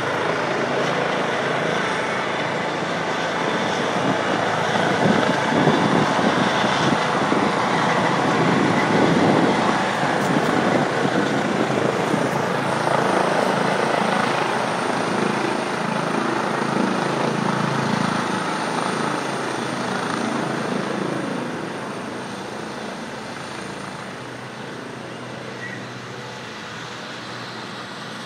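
Rescue helicopter's rotor and turbine noise at close range, a loud rushing whir with a beating rotor chop, fading steadily over the last several seconds.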